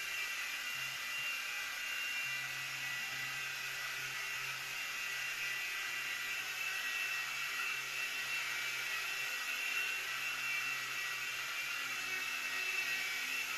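CZ02 Black Ant mini RC helicopter in flight: its small electric motors and rotor blades make a steady high-pitched whine over an even whirring hiss.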